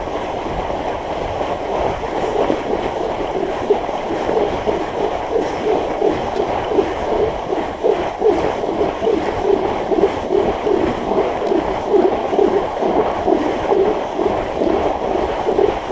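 Fat bike's wide tyres rolling and grinding on firm packed snow while climbing a steep hill, with a steady rushing noise and a rhythmic pulse about twice a second that grows clearer after the first few seconds.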